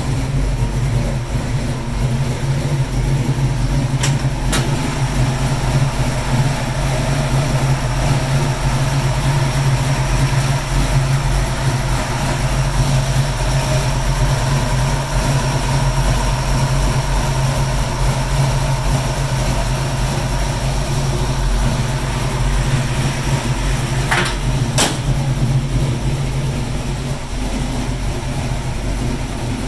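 Small-block Ford V8, a 310 with a Lunati cam, aluminum heads, air-gap intake, MSD ignition and a Quick Fuel carburettor, idling steadily in a 1968 Mustang after a cold start. Two brief clicks sound over the idle, about four seconds in and near the end.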